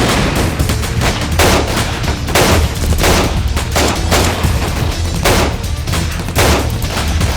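Repeated bursts of gunfire in a film shootout, shots and short volleys every half second to a second, each with a ringing tail. Music plays beneath.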